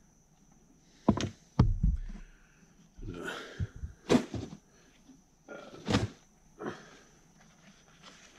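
Hand work on hydraulic cylinder parts: a few sharp knocks and clunks as parts and tools are handled, with short bits of rustling and scraping between them.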